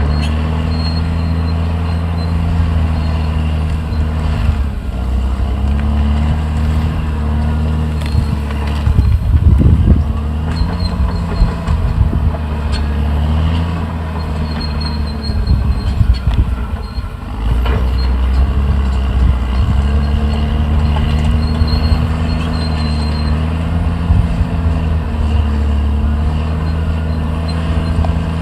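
Caterpillar D6R XL bulldozer's diesel engine running hard, its note dipping and rising again several times as the load changes. About nine seconds in, and again around sixteen seconds, there is a spell of irregular clattering and crunching.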